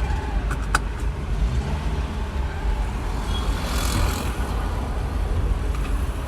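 Steady low rumble of a car's engine and road noise heard from inside the cabin while in traffic, with a few light clicks in the first second and a brief rushing swell about four seconds in.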